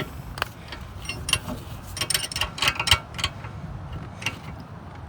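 Metal wrenches clicking and clinking on a rear brake caliper bolt as it is turned by hand after being broken loose. The clicks are irregular and come thickest about two to three seconds in.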